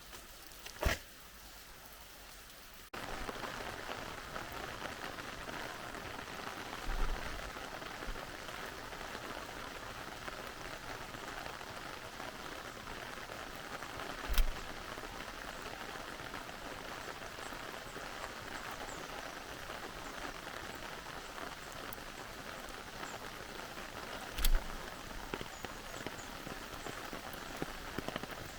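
Steady rain falling, a dense even patter that jumps suddenly louder about three seconds in, with a few sharp single knocks scattered through it.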